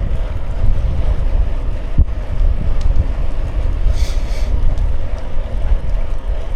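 Wind buffeting the microphone of a camera on a moving bicycle: a loud, steady low rumble. A brief high-pitched sound comes about four seconds in.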